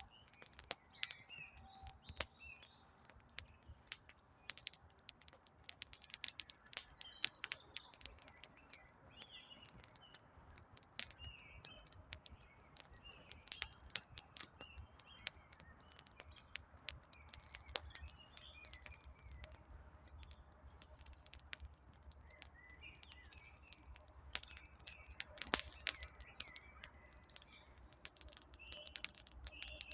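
Wood campfire crackling, with sharp, irregular pops and snaps, while small birds chirp in short calls.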